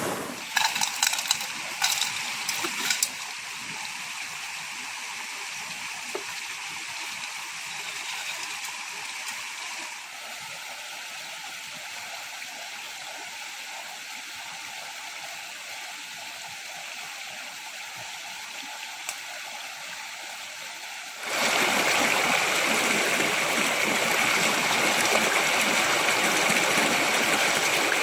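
Running stream water, a steady rushing hiss. Several sharp knocks sound in the first few seconds. About three-quarters of the way in, the rush jumps abruptly louder and fuller.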